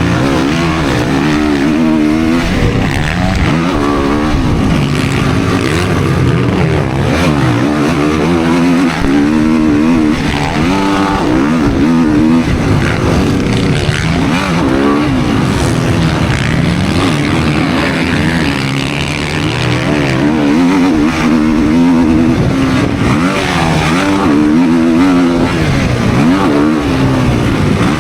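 Motocross dirt bike engine revving hard and easing off again and again as it runs around a track, the pitch climbing and dropping every second or two.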